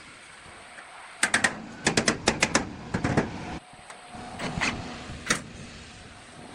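Irregular sharp clicks and knocks of hand work during a tractor repair, some coming in quick runs of three or four.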